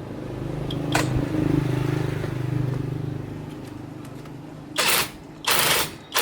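An engine running with a steady hum that swells for a couple of seconds and then eases off, with a sharp click about a second in. Near the end come several short bursts of hissing.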